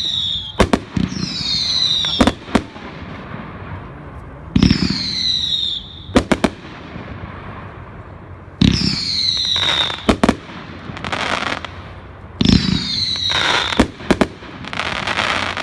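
A consumer fireworks cake ("Rio") firing shot after shot, roughly every four seconds. Each shot is a thump with a whistle falling in pitch, followed by sharp cracking reports.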